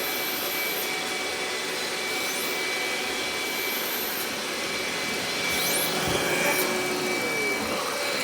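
Robot vacuum cleaner running steadily: the motor's hiss with a constant high whine. There is a short low bump about six seconds in.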